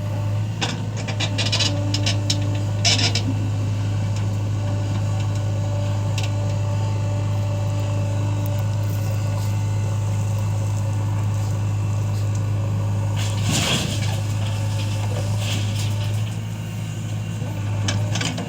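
Heavy diesel machinery running steadily with a low drone. There are scrapes and clunks in the first few seconds and a louder scrape about thirteen seconds in, typical of a loader bucket working soil.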